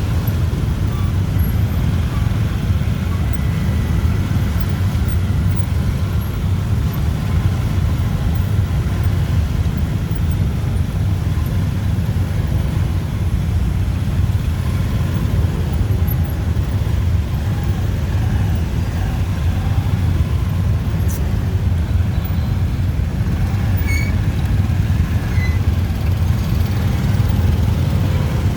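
Busy city street traffic, motorbikes and cars running together in a continuous low rumble that holds steady throughout.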